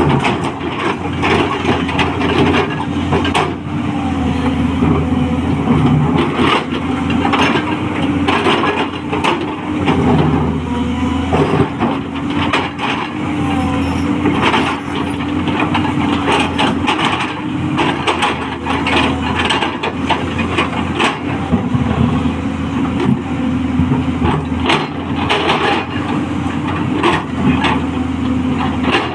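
Diesel engine of a 210LC crawler excavator running steadily, its pitch wavering slightly up and down, with frequent irregular knocks and clatter.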